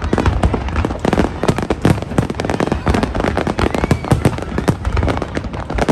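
Aerial fireworks display: a dense, unbroken barrage of bangs and crackles, many shells bursting close together.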